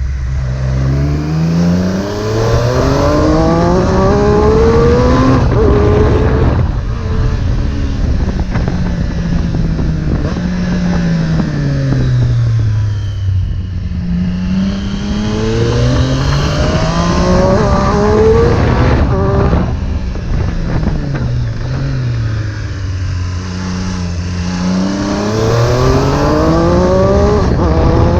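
Triumph Street Triple 765 S inline-three engine through an Arrow exhaust, accelerating hard up through the gears in three pulls, its pitch climbing in steps. Between the pulls the revs fall away as it slows.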